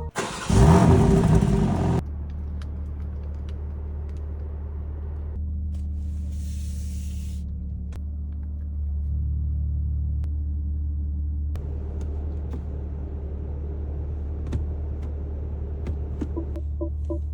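BMW M3 Competition's twin-turbo straight-six starting up with a brief loud flare of revs, then settling into a steady low idle. Its idle rises slightly for a couple of seconds about halfway through.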